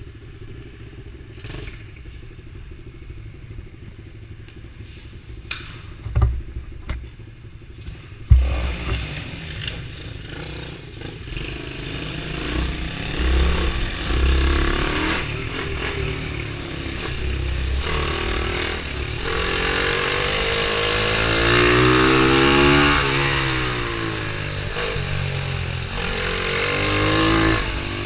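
Pit bike engine: a low rumble with a few clicks at first, a sharp knock about eight seconds in, then the engine running louder, its pitch rising and falling repeatedly as the throttle is opened and closed.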